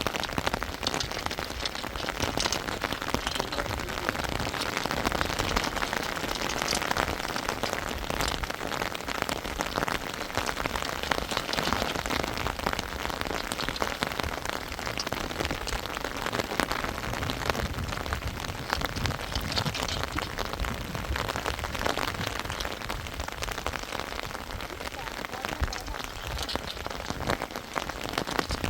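Steady rain falling: a dense, even hiss of many drop impacts that runs without a break.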